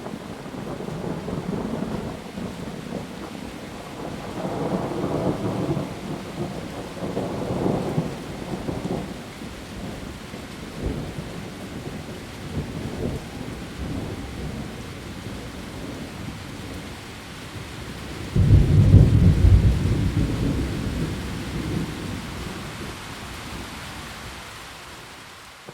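Heavy rain falling on leaves as a steady hiss, with rolling thunder. Low rumbles swell and fade through the first half. About three quarters of the way through, a sudden loud thunderclap rumbles and dies away over several seconds.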